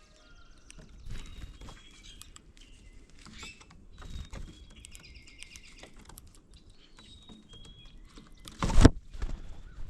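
Wild birds calling outdoors with short, faint whistles and a brief trill. There are scattered light clicks, and one loud sharp knock near the end.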